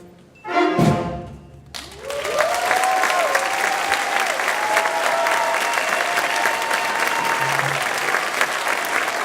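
A school concert band's brass and percussion sound a short final chord, then audience applause breaks out about two seconds in and carries on steadily, with a few cheering voices.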